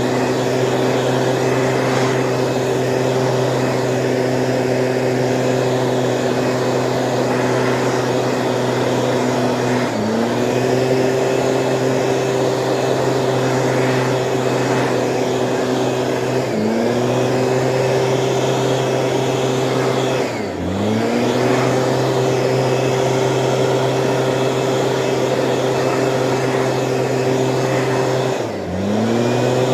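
Stihl engine-powered weed sprayer running steadily at a high, even pitch while spraying. Four times the engine note dips sharply and climbs back to speed within about a second.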